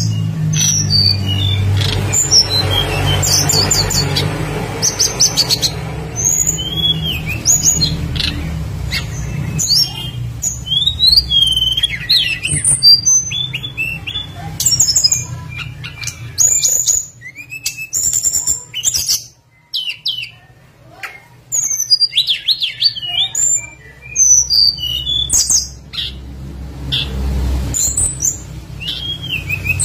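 Tledekan gunung (brown-chested jungle flycatcher) singing a rapid, varied run of short whistles, chirps and slurred notes with few pauses. A steady low hum sits under the song, fading out for a few seconds in the middle.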